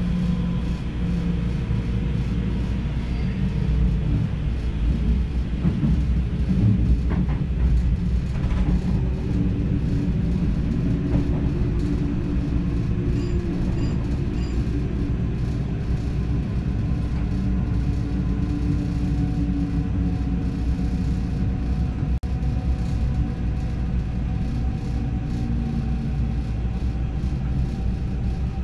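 Steady rumble of an NS DDZ double-deck electric train running along the rails, heard from inside the driver's cab, with faint steady motor tones over the noise.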